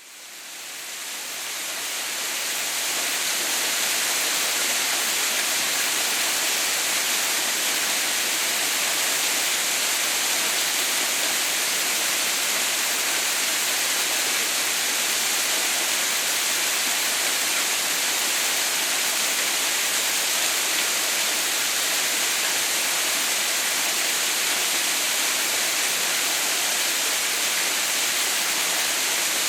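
Waterfall: the steady hiss of falling water, fading in over the first few seconds and then holding level.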